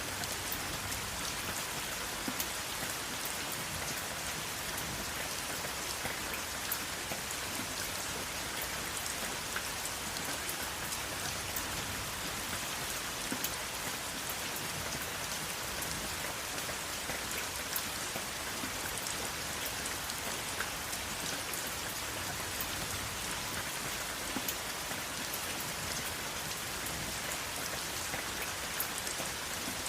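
Steady rain falling, an even hiss with scattered sharper ticks of individual drops striking a surface.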